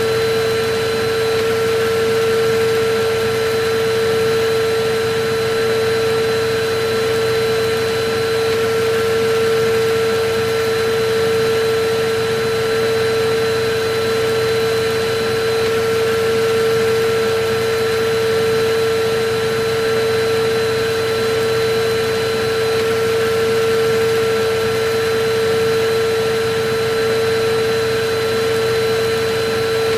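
Electric vacuum cleaner running steadily: a constant rush of air with a steady hum from the motor, unchanging throughout.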